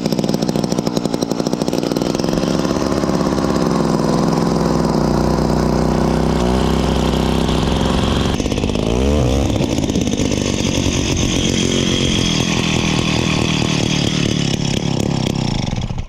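Gas-powered ice auger running at high revs while boring a hole through pond ice. Its engine note shifts about eight seconds in, and it cuts off at the end.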